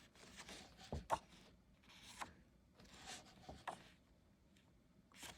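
Pages of a large hardcover book being turned by hand: soft, faint paper swishes with a few light taps and clicks, most of them about a second in and around three and a half seconds in.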